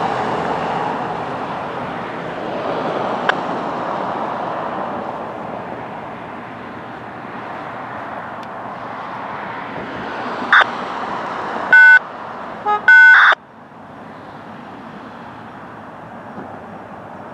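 Norfolk Southern intermodal container train rolling past: a steady rush of wheels on rail that slowly fades as the cars go by. Two short, loud high-pitched tones cut in about twelve and thirteen seconds in.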